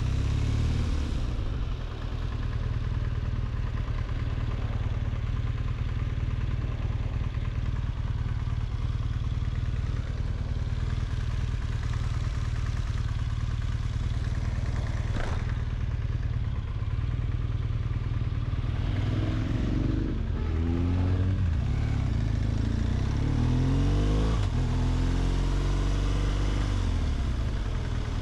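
BMW R1200GS flat-twin engine running under way, steady for the first part. From about two-thirds of the way in, the revs rise and fall several times as the rider opens the throttle and changes gear. A single sharp click comes about halfway through.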